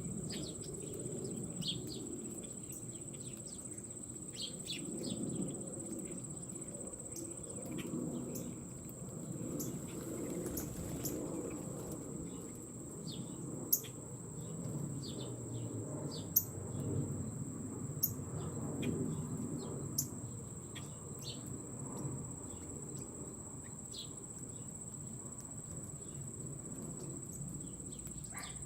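Outdoor ambience of birds giving short scattered chirps over a steady high insect drone, with a low rumble underneath. A few sharp clicks come near the middle.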